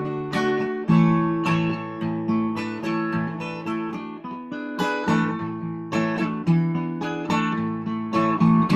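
Acoustic guitar playing an instrumental passage between sung verses, with a steady run of plucked and strummed chords.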